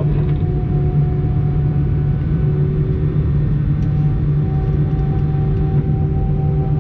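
Steady low rumble and hum of an Airbus A320 cabin on the ground before takeoff, with faint steady whining tones over the drone.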